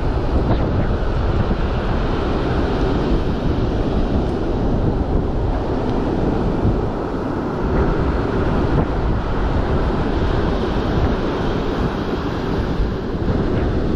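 Strong wind buffeting the microphone over the steady rush of rough breaking surf, the gusty front edge of a tropical storm.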